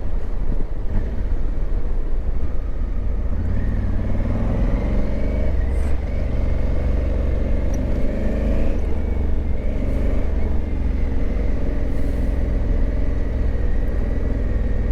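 Honda Africa Twin motorcycle being ridden on the road: steady engine and wind rumble, with the engine note picking up about four seconds in and easing off again around nine seconds.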